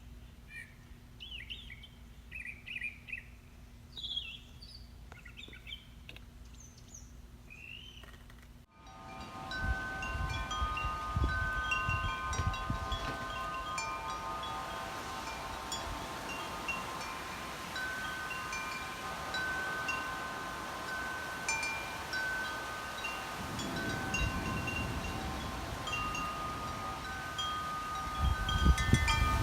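Birds chirping for about the first nine seconds, then a sudden change to wind chimes ringing, many held tones at different pitches overlapping, with wind gusting on the microphone.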